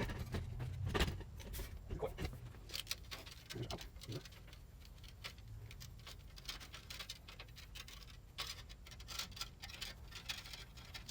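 Hands handling and opening small parts: a scatter of light clicks, taps and rustles, with a few duller knocks in the first two seconds.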